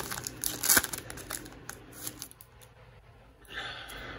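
Foil wrapper of a hockey card pack crinkling and tearing as it is opened, with sharp crackles in the first second and a half, then quieter handling of the cards.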